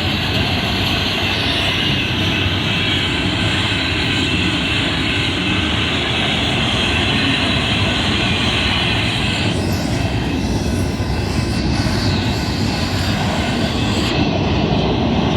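Intermodal freight train's cars rolling past, a loud steady rumble of wheels on rail. A higher hiss fades about ten seconds in while the rumble keeps on.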